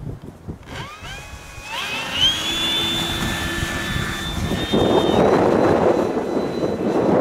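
Brushless electric motor and propeller of an E-flite Draco RC model plane whining up in pitch twice as the throttle is opened, then holding a steady high whine. About five seconds in, louder gusty wind noise on the microphone covers it.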